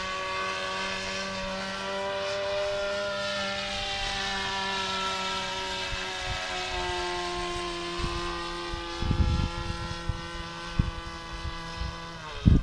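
Engine and propeller of an RC trainer model plane droning steadily in flight, the pitch dipping slightly about halfway through. Near the end the pitch slides down and the engine sound cuts out, while wind buffets the microphone in the last few seconds.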